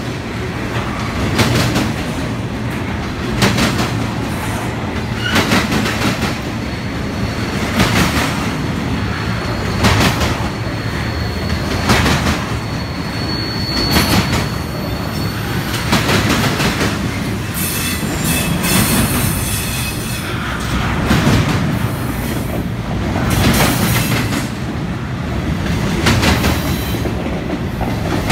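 Intermodal freight train cars carrying trailers and containers roll past. The wheels clack over rail joints in a loud group about every two seconds, over a steady rolling rumble. A thin, high wheel squeal rises about halfway through.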